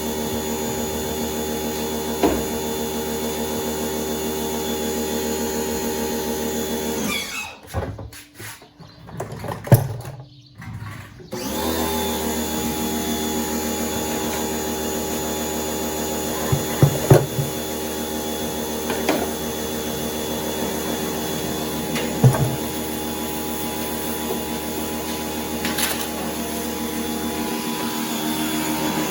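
An electric motor running with a steady hum. It stops for about four seconds partway through, then starts again, with a few light knocks later on.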